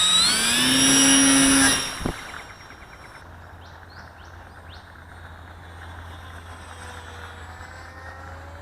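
Electric model plane's motor and propeller spinning up for takeoff, a loud rising whine that stops abruptly about two seconds in. A faint, distant motor whine and a low steady hum follow.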